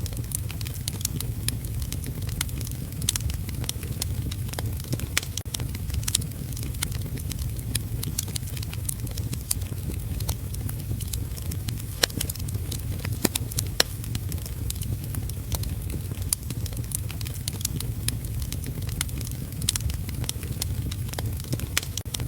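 Wood fire in a fireplace crackling, with many sharp pops at irregular intervals over a steady low rumble and faint hiss.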